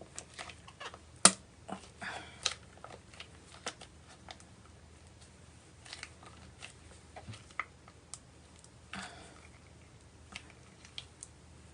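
Scattered light clicks and taps of kitchen utensils against a bowl, with one sharper knock about a second in.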